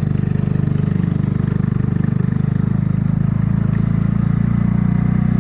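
Kymco People 250 scooter's single-cylinder four-stroke engine running steadily at a constant speed, its exhaust leaks freshly sealed with high-heat JB Weld epoxy.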